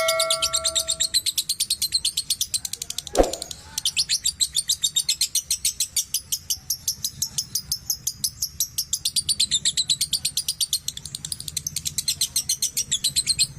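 Lovebird giving its long 'ngekek' song: a fast, unbroken run of high, rapidly repeated chattering notes with no pause. A chime fades out in the first second, and a brief thump sounds about three seconds in.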